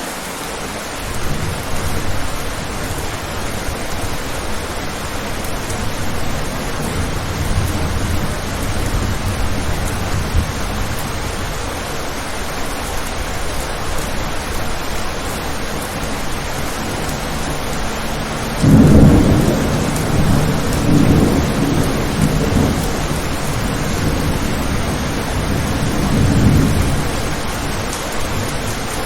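Steady rain with rolling thunder: a low rumble early on, then a louder thunderclap about two-thirds of the way in that rumbles on in swells for several seconds.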